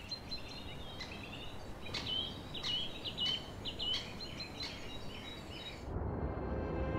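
A bird singing over a soft steady forest hush, repeating short chirped phrases. About six seconds in the ambience cuts off and music starts.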